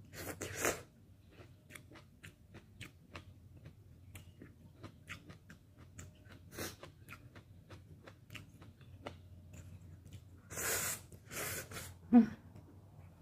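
Close-up eating of bok choy and instant ramen noodles: a run of small wet chewing clicks, with a slurp at the start and two longer noodle slurps near the end.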